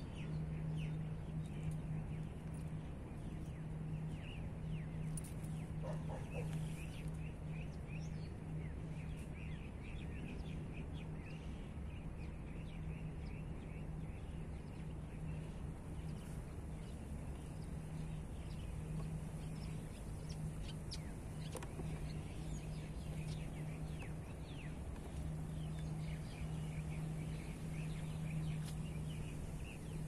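Small birds chirping repeatedly over a steady low hum and a low background rumble.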